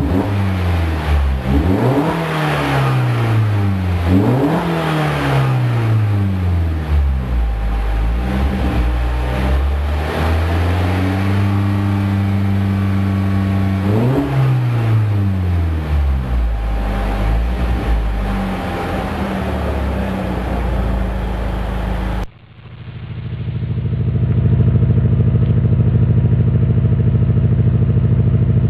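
Car exhaust under repeated free revs: the engine note sweeps up and falls back several times, settling into steadier running between blips. About 22 seconds in it cuts abruptly to another engine note that swells over a couple of seconds and then holds steady and loud.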